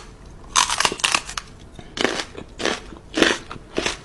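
A pet chewing crunchy food, with about six loud, uneven crunches.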